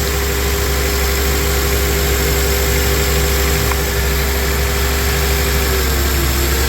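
2004 Honda Accord engine idling rough with a hard miss: one cylinder is misfiring. The idle pitch sags briefly near the end.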